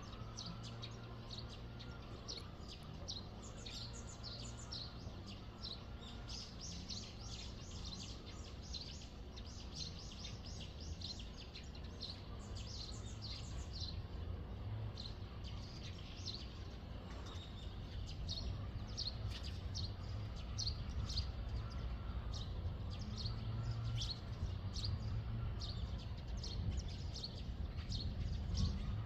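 Small birds chirping: many short, quick high calls repeated throughout, over a steady low background hum.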